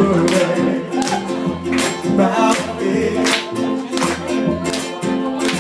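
Live acoustic guitar music in a reggae groove, with a sharp strum about every three-quarters of a second over held notes.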